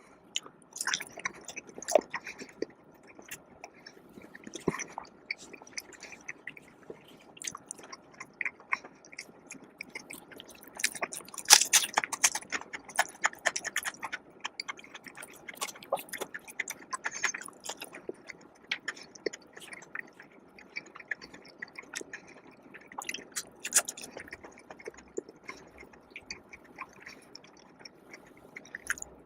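A person biting and chewing crisp fried food close to the microphone: irregular crunchy clicks, thickest about eleven to fourteen seconds in.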